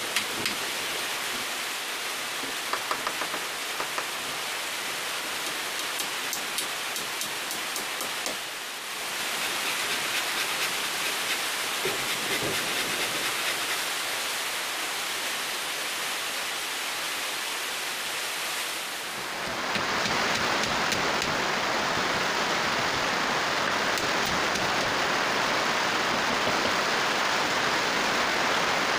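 Steady heavy rain, an even rushing noise that grows louder at about nine seconds and again at about twenty seconds.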